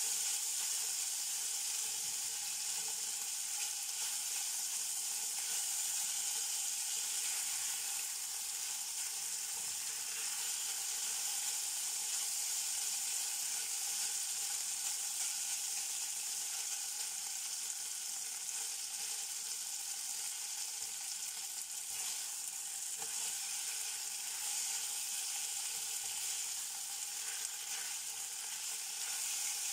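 Beef strips frying in oil in a hot pan with a steady sizzle, stirred with a spatula.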